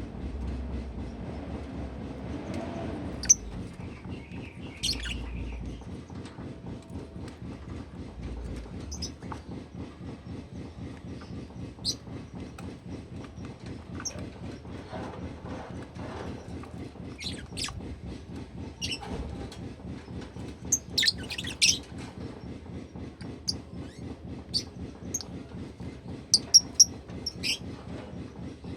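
Pet lovebird giving short, sharp chirps at scattered intervals, more often toward the end, over a steady low mechanical hum.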